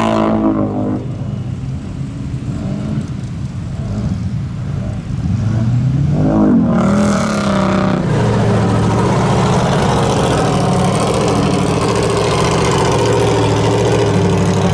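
A truck engine revving. Its pitch falls at the start and the sound eases off, then it revs up again about five seconds in and holds a steady, loud run.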